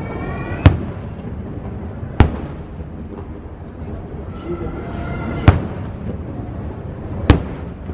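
Aerial fireworks shells bursting: four sharp bangs spaced a second and a half to three seconds apart, each trailing off in a short rumbling echo.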